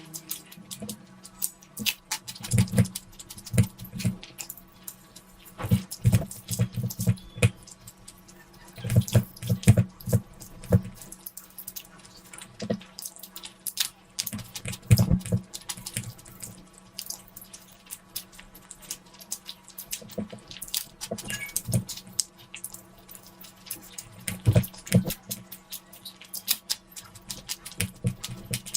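Close-miked wet eating sounds: a person chewing and smacking mouthfuls of curry-soaked food, in irregular clusters of sticky clicks and soft thumps.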